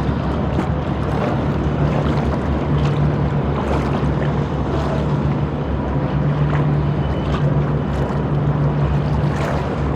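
Boat engine droning steadily with a low hum, over the wash of river water and wind.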